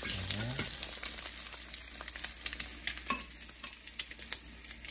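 Egg-dipped bread slices frying in hot oil in a stainless steel pan: a steady crackling sizzle that eases somewhat in the second half. Occasional light clinks of a fork against the pan and the bowl of beaten egg.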